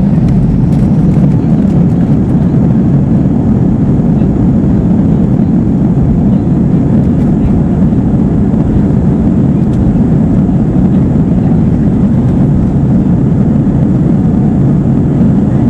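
Steady, loud drone inside the cabin of an Airbus A320-232, from its IAE V2500 engines and the airflow, with no change in pitch or level.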